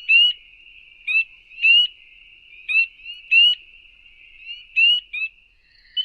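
Spring peepers calling: short, high, upward-slurred peeps, about one a second, over a steady background chorus of more peepers.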